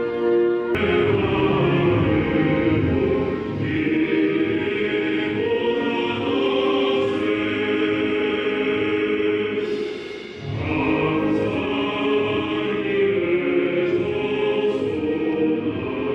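Music with a choir singing sustained, full chords, with a change about a second in and a brief drop and restart about ten seconds in.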